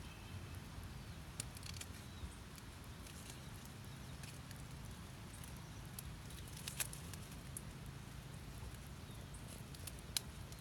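Faint outdoor ambience: a steady low rumble with scattered small clicks and ticks, two of them sharper, about seven and ten seconds in.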